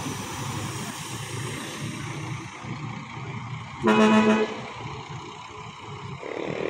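Steady rumble of idling and passing bus engines, with one short, loud bus horn honk about four seconds in.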